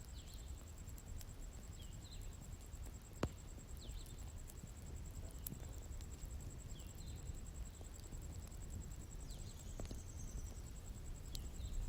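Bonfire burning with a low rumble and a few sharp crackling pops. Over it, a small bird chirps in short repeated calls, and a steady high-pitched insect drone runs underneath.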